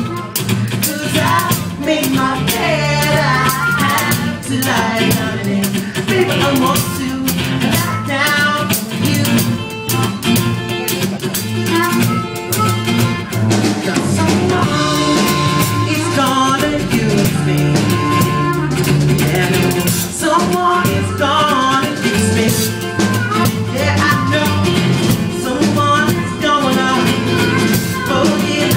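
A band playing a song live, with a voice singing over drum kit and other instruments.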